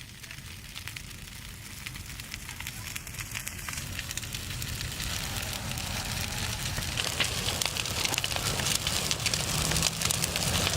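Large bonfire of dry Christmas trees burning hard, a dense crackle over a low rumble, growing steadily louder.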